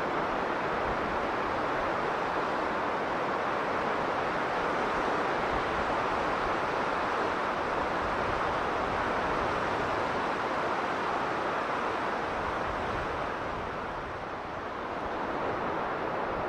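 Strong blizzard wind blowing as a steady rushing noise, easing a little and then swelling again near the end.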